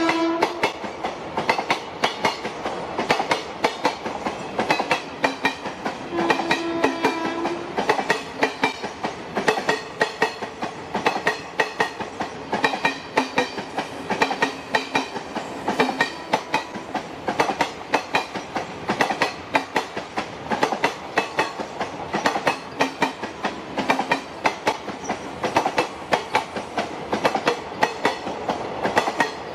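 Indian Railways train wheels clattering rhythmically over rail joints throughout. About six seconds in, the train's horn sounds once for about a second and a half.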